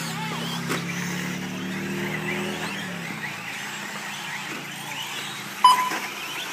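Radio-controlled 4WD short course trucks running laps, their electric motors whining up and down as they accelerate and brake through the corners. A short electronic beep, typical of the lap-timing system, sounds near the end.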